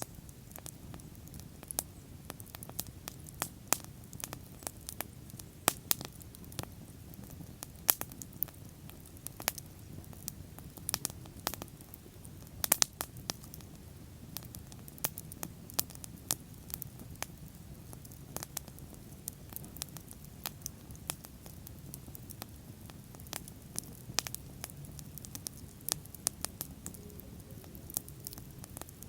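Wood bonfire burning, with frequent irregular sharp crackles and pops over a steady low rumble of the flames.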